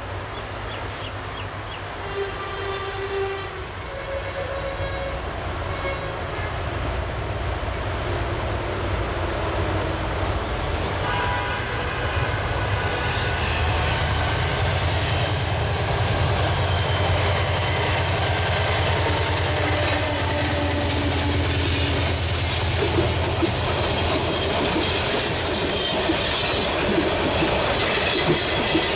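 Diesel locomotive approaching and passing with a low engine drone that grows louder. It sounds its horn a few seconds in and again near the middle. Then the passenger coaches roll by, with wheels clattering over the rail joints.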